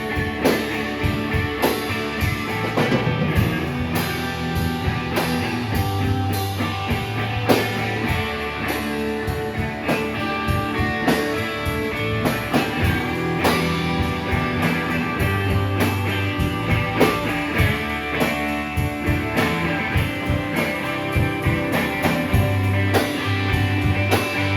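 Live rock band playing an instrumental passage with no vocals: guitar over a drum kit keeping a steady beat.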